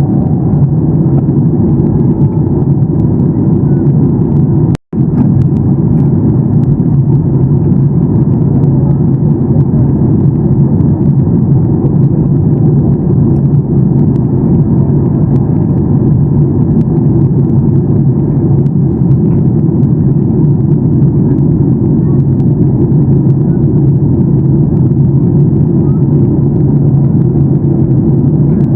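Steady cabin noise inside a Boeing 737-800 during the descent: the low, even rumble of airflow and the CFM56 engines, heard from a window seat behind the wing. The sound cuts out for a split second about five seconds in.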